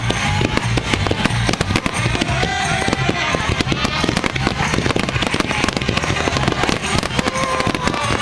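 Fireworks bursting and crackling in quick succession over music with a steady beat and a singing voice.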